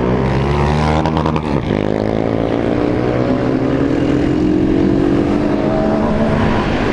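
Motorcycle engines running in a group ride. After a brief break with a few clicks about a second in, one engine's pitch climbs steadily for a few seconds as it accelerates, then holds.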